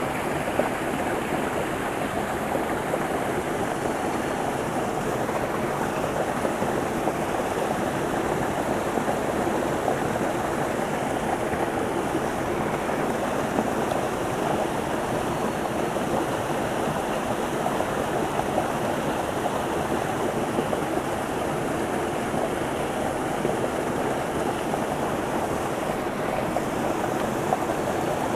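Small waterfall on a shallow creek pouring into a pool, a steady rush of running water.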